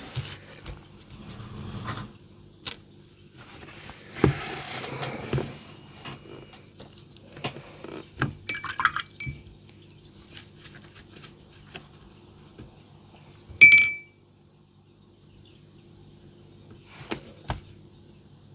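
Small clinks and taps of a paintbrush against a glass water jar during watercolour painting, with a short swish of water. The loudest is a single sharp clink with a brief ring just before the last few seconds.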